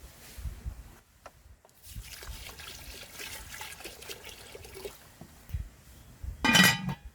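Water poured into a cooking pot for rice, trickling for about three seconds. Near the end comes a brief, loud ringing sound.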